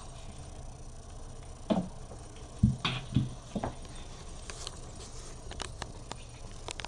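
A cat tussling with a catnip toy: a cluster of soft thumps and scuffles, the loudest about two and a half seconds in, then light scattered taps and clicks.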